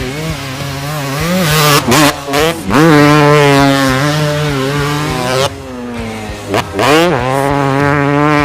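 Dirt bike engine revving sound, the pitch swooping up and down several times with short breaks between revs.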